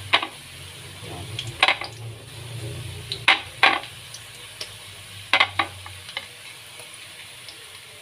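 Sweet potato fries sizzling in hot oil in a wok, a steady hiss, with a handful of sharp knocks of a utensil against the pan, some in quick pairs, as the strips are stirred.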